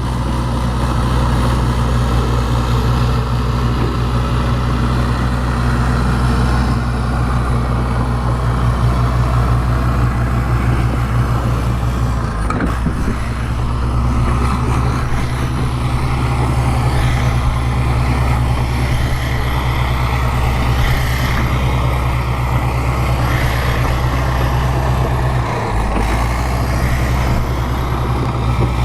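Bulldozer diesel engine running steadily under work, with a brief change in its note about halfway through and again near the end.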